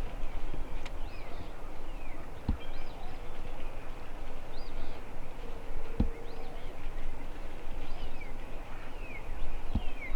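Small birds chirping and singing, with short falling whistles repeated every second or so, over a steady low rumble. A few dull low thumps come at irregular intervals.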